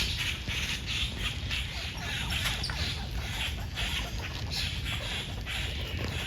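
Animal chattering: a steady run of short, scratchy calls following one after another.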